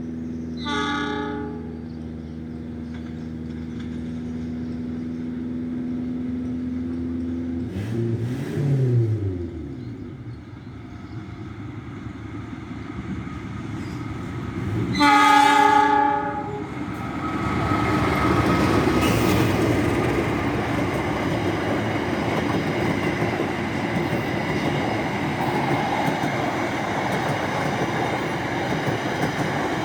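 A diesel-hauled passenger train running through a station without stopping. The locomotive engine hums steadily, with a short horn blast about a second in and a falling-pitch sweep about eight seconds in. A loud horn blast comes about fifteen seconds in, then the carriages roll past with steady wheel-and-rail noise.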